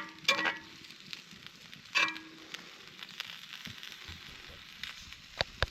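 Seasoned ground meat sizzling steadily in a pan as added water simmers off. A metal utensil knocks against the pan a few times, with a short ring at the start and again about two seconds in, and two quick clicks near the end.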